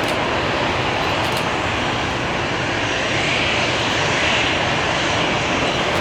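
Airliner engines running loud and steady as a plane passes, with a faint high whine that bends in pitch near the middle.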